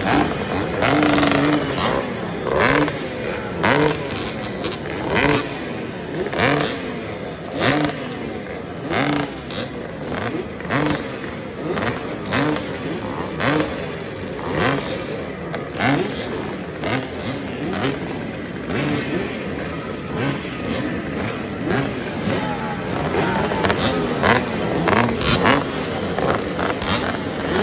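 Several vintage motocross motorcycles racing, their engines revving up and dropping off again and again in overlapping waves as riders work the throttle around the track.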